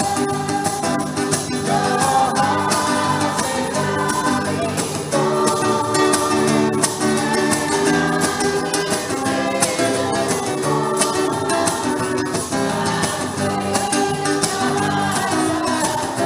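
Music: singing voices with instrumental accompaniment, a continuous sung piece.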